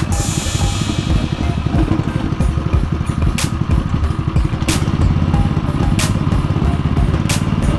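Go-kart buggy's Predator 212cc single-cylinder four-stroke engine running, picking up revs about five seconds in. Sharp knocks recur about every second and a bit.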